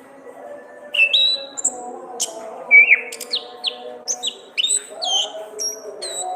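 Orange-headed thrush (Anis kembang) singing a quick run of sharp, varied chirps and whistled notes, starting about a second in, over fainter steady lower tones.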